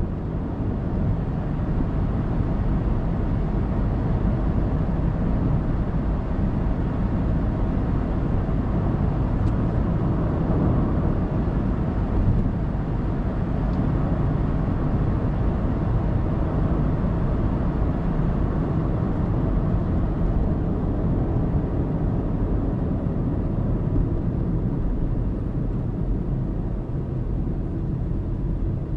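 A car driving on an expressway, with steady low tyre and engine rumble.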